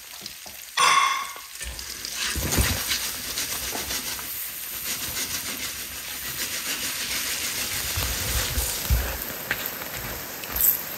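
Battered silkworm pupae frying in hot olive oil and butter in a sauté pan: a steady sizzle, with low knocks as the pan is shaken and the pupae stirred. A brief loud clatter about a second in.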